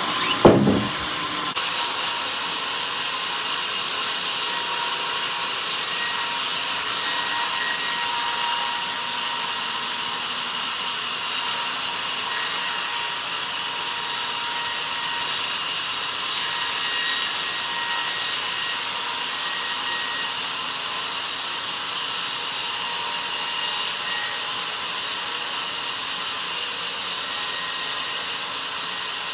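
Sawmill bandsaw blade cutting through a log: a steady sawing noise that steps up about a second and a half in and holds, with a faint steady whine under it.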